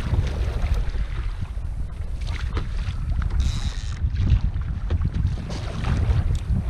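Wind buffeting the action-camera microphone on a kayak at sea, a steady low rumble with scattered small clicks. A brief hiss sounds about three and a half seconds in.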